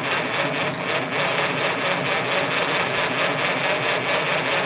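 Starter motor cranking the 1931 Chevrolet's overhead-valve straight-six engine over steadily, with a fast, even churning rhythm. It is turning the engine so the mechanical fuel pump draws fuel up from the tank.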